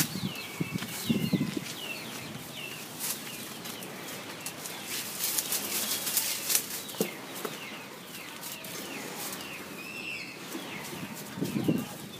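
Small birds chirping again and again in short calls, with rustling and sharp snaps of leaves and twigs as dogs and the camera move through the garden plants.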